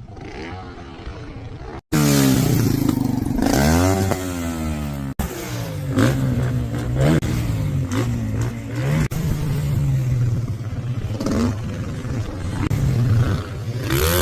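Dirt bike engine revving, its pitch climbing and dropping again and again through the gears. It is faint for the first two seconds, then cuts in loud, with a few abrupt breaks.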